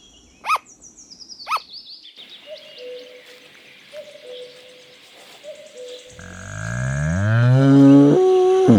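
A sugar glider barking, two short sharp yips about half a second and a second and a half in. Near the end a loud, long, low call rises steadily in pitch; its source is unnamed.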